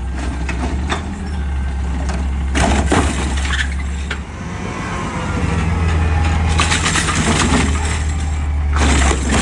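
Peterbilt 520 garbage truck's engine running steadily, dipping about four seconds in and then coming back stronger, with short clattering knocks about three seconds in, a burst of them around the middle-to-late part, and more near the end.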